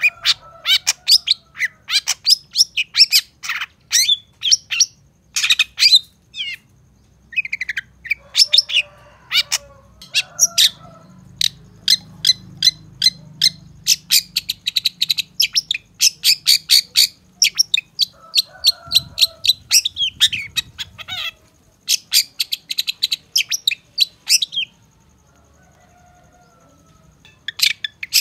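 Long-tailed shrike singing: rapid runs of sharp, high chattering notes with some lower notes mixed in, breaking off for a few seconds near the end.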